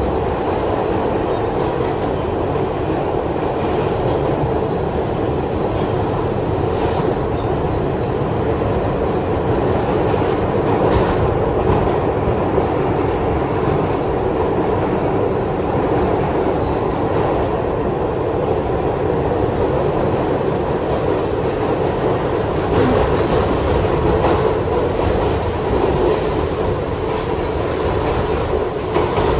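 New York City Subway Kawasaki R62 train running along the track, with a steady rumble of wheels on rail and a faint steady tone in the running noise. A brief high-pitched sound comes about seven seconds in.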